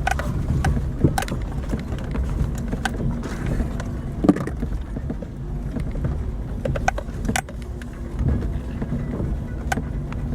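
Daihatsu Terios driving off-road over rough ground: the engine runs with a steady low hum, with scattered sharp knocks and clatters every second or two as the vehicle jolts.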